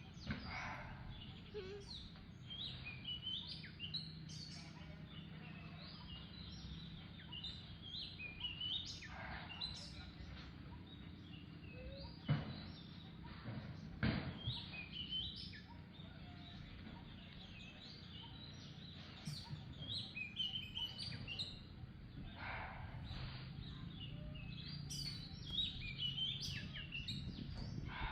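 Outdoor ambience with birds chirping: many short, high chirps over a steady low hum, with two sharp knocks about halfway through.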